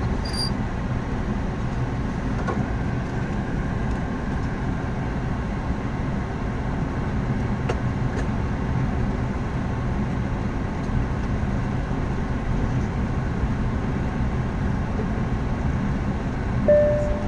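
Steady cockpit noise of an Embraer ERJ 145 climbing out after takeoff: a constant rumble of its turbofan engines and airflow. Near the end a single chime tone sounds.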